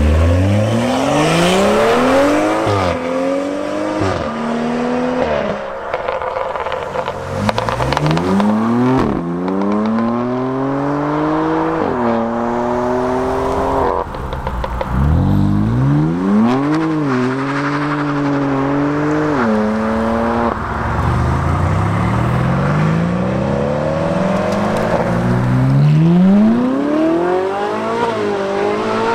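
Supercar engine accelerating hard, about four times in turn. Each pull climbs steeply in pitch, then drops at the upshifts into the next gear.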